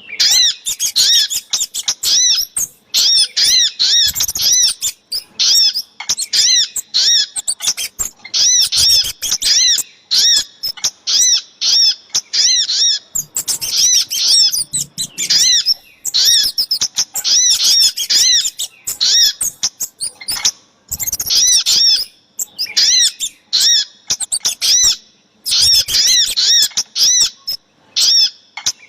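Bird-lure recording of sogok ontong and kemade calls: rapid, repeated high chirps in bursts of a second or two, broken by short pauses.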